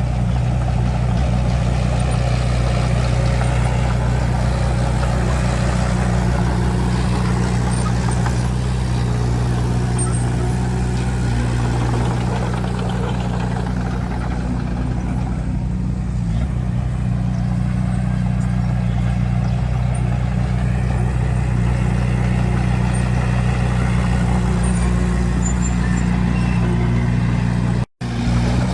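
Bulldozer's heavy diesel engine running steadily under load, with a deep, constant drone. The sound cuts out briefly near the end.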